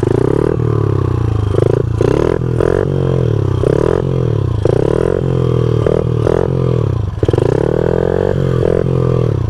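Honda CRF50 pit bike's small single-cylinder four-stroke engine, ridden in slow tight circles with the throttle worked on and off. The engine revs rise and fall again and again, with brief drops in between.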